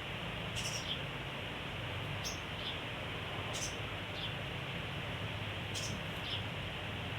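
A sogon songbird giving short, high, squeaky chirps in pairs, about four pairs spaced a second or two apart, over a steady hiss and a low hum.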